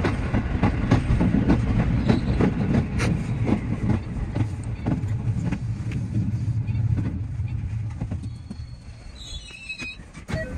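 Cab of a JR West 207 series electric commuter train running and slowing to a stop: a steady running rumble with wheels clicking over rail joints, both fading as it slows. Near the end comes a brief high brake squeal as it halts.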